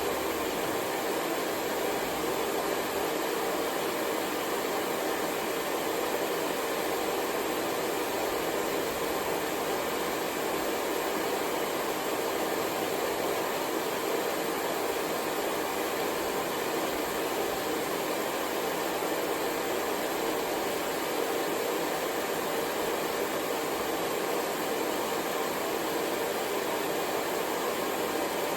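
Hair dryer running continuously, a steady, even whoosh of blown air and motor hum with no change in level.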